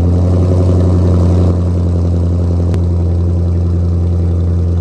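Car engine idling fast right after a cold start, a steady low drone that eases slightly about a second and a half in.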